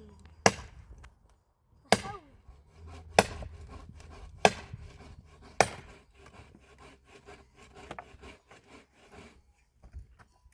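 Wood being chopped: five sharp strokes about a second apart, then lighter quick cracking and rustling of wood.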